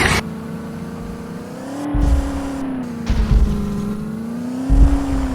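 Tractor engine running, its pitch rising and easing back twice, with heavy low thuds.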